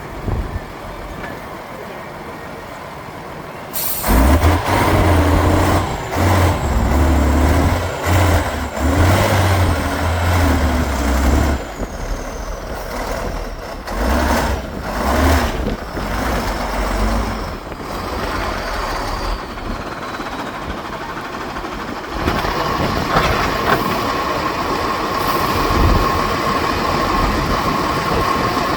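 Heavy off-road trial truck's engine revving hard, its pitch rising and falling. It is loud from about four seconds in. A steady high whine joins near the end.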